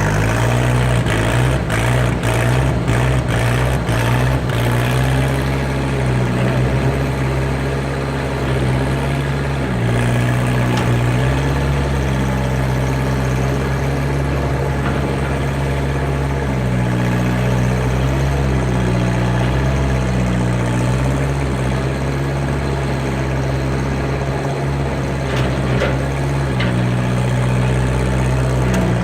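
Skid steer engine running steadily, its pitch dipping and rising now and then as the machine works. A burst of knocks and clatter comes in the first few seconds.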